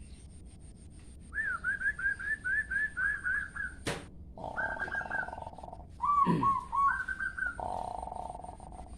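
Songbird song of the kind used as a lure recording to set caged birds singing. It opens with a quick run of about ten repeated chirps, gives a single sharp click about four seconds in, then goes on with short trilled phrases over a buzzy lower note.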